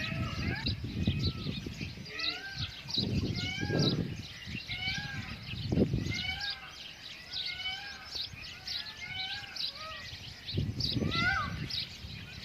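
Many birds chirping together in a busy chorus of short arched calls, with low rumbling noise rising and falling a few times underneath.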